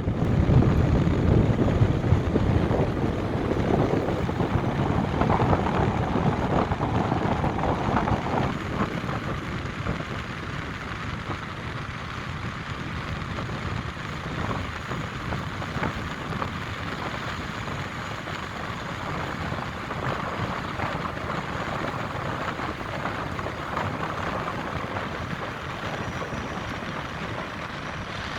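Outdoor storm noise of wind and city traffic rumble, louder for the first eight or nine seconds, then a steadier, lower level.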